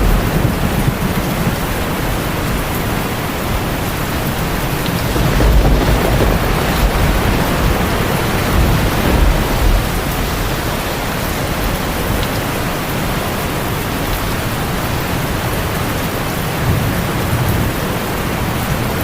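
Heavy rain drumming steadily on a tin roof, with low rolls of thunder swelling a few seconds in and again near the end.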